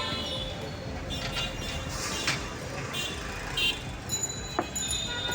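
Busy street noise with traffic running throughout, and a few short sharp clinks and taps over it.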